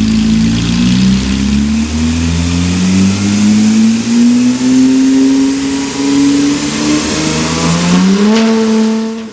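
Porsche 981 Boxster S flat-six engine through an iPE valvetronic exhaust, revving under acceleration: its note climbs slowly, falls back once about seven seconds in, climbs again, then cuts off suddenly.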